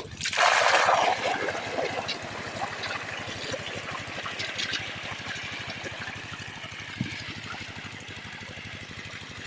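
Water gushing from the outlet of a pump set, with the pump's 8 hp single-cylinder diesel engine running steadily underneath. The rush of water is loudest in the first second, then settles to a steady flow.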